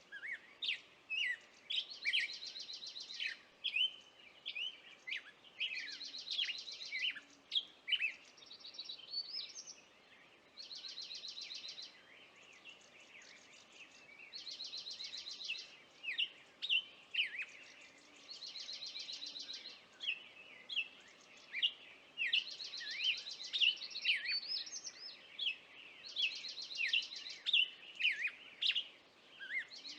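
Songbirds singing: rapid, even trills about a second long, repeating every two to three seconds, among many short, sharp falling chirps.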